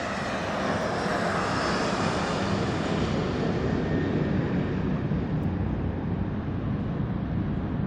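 Jet airliner's engines at high power, a steady rumble and hiss. The upper hiss fades gradually while the low rumble holds.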